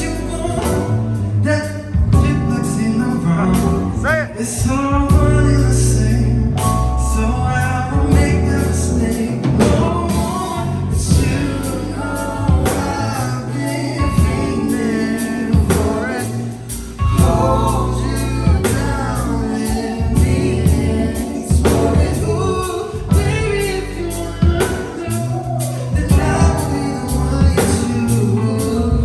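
A song played live: a lead singer over a band, with a steady beat and heavy bass.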